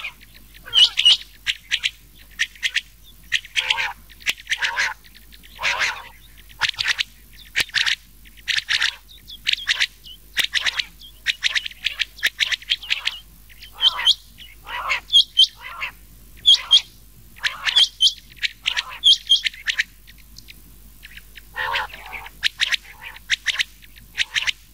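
Rain quail and common quail calls mixed together, a lure track for netting quail: short, sharp, high-pitched notes repeated in quick clusters, with a brief lull near the end.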